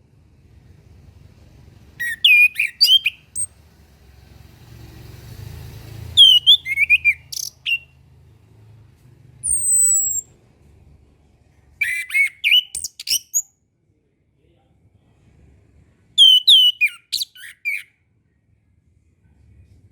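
Orange-headed thrush (anis kembang) singing: four short phrases of quick, varied whistled notes a few seconds apart, with a single high falling whistle between the second and third. A soft rushing noise builds just before the second phrase.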